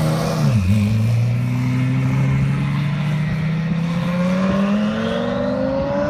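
Twin-turbo Lamborghini engine accelerating. After a brief dip in revs in the first second, the engine note climbs steadily through one long pull and rises faster near the end.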